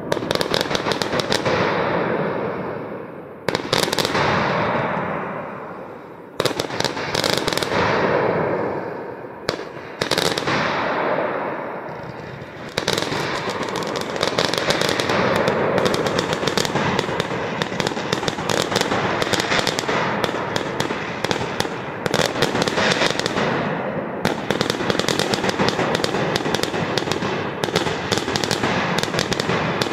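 Aerial firework shells bursting overhead: single loud bangs a few seconds apart at first, then after about a dozen seconds a rapid, continuous barrage of bangs and crackle.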